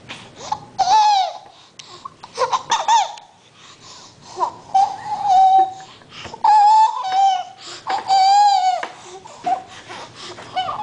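A baby making odd high-pitched vocal noises: a string of squeals and cry-like calls, some short and a few held for about a second.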